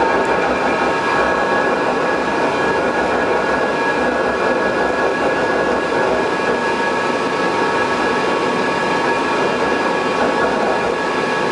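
Taipei Metro Wenhu line Bombardier rubber-tyred train running steadily: a constant rumble with several steady high whining tones over it, the abnormal noise (異音) that this train makes while running.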